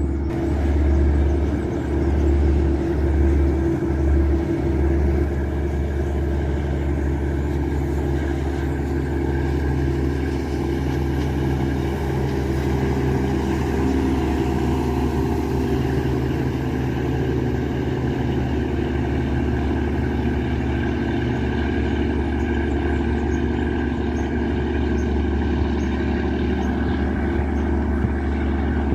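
Yanmar 829 hp marine diesel engine of a river passenger boat running steadily at cruising speed, with a deep, even hum. The low end swells a few times in the first few seconds.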